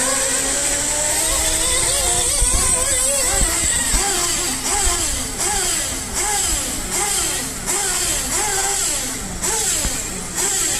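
Several RC model buggies' small engines whining together, each pitch repeatedly rising and dropping quickly as the cars accelerate and brake around the track.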